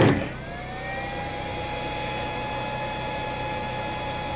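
A motor spinning up, its whine rising over the first second, then running steadily with a constant whine.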